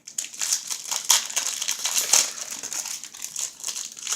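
Baseball card pack wrapper crinkling and crackling as it is pulled open and handled.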